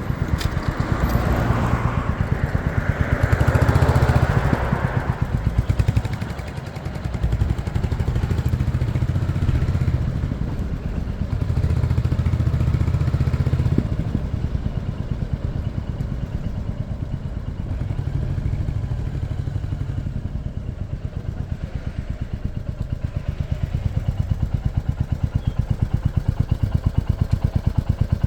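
Motorcycle engine running during a ride, its low pulsing note swelling and easing several times as the throttle opens and closes. A rush of broader noise rises and falls in the first few seconds.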